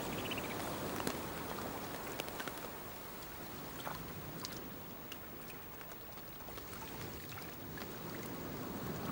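Sea water lapping and splashing gently, with scattered small drips and ticks, and a brief faint high chirp right at the start.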